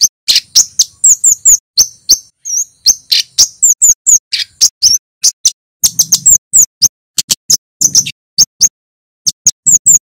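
Male kemade flowerpecker (cabe-cabean) calling: a rapid string of short, sharp, high-pitched 'cit' chirps, several a second, loud and piercing, with a few brief pauses.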